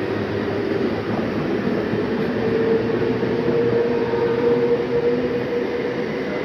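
Sealdah–Ranaghat EMU local train running along the platform: a steady rumble of wheels on rail, with a held whine in the middle.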